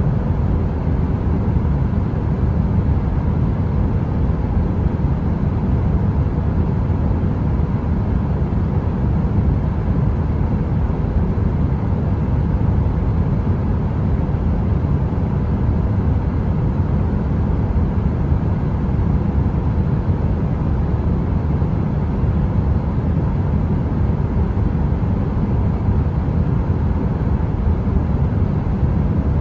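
Steady, deep heater noise of the brown-noise kind, a dense rushing rumble weighted to the low end, with a faint even hum on top.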